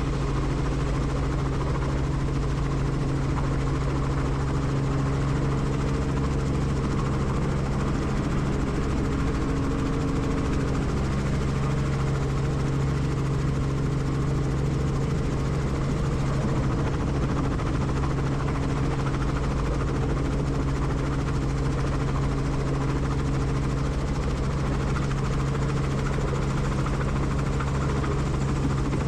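Helicopter in flight heard from on board: a steady hum from the rotor and engine with a constant low drone, unchanging throughout.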